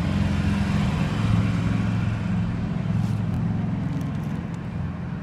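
Steady low engine hum, as of a motor running nearby, with a hiss over it.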